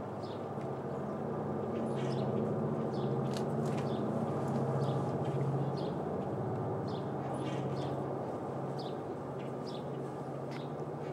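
Diesel locomotive engines of a coke train running with a steady low drone that swells through the middle and then eases back. Short high chirps, like birds, come every second or so.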